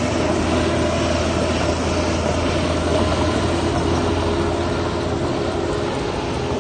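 Heavy diesel engine of earthmoving machinery running steadily, a loud even drone.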